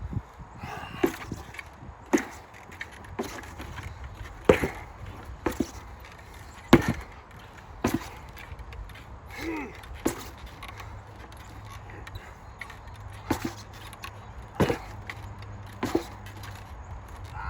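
An 8 lb sledgehammer striking a training target in steady repeated blows, about one a second, some thirteen in all.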